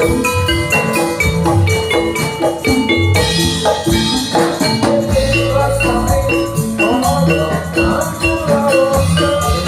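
Music of struck metal keyed percussion in the style of Javanese gamelan, playing a fast repeating pattern over drums, loud through a sound system. A deep low note swells about halfway through.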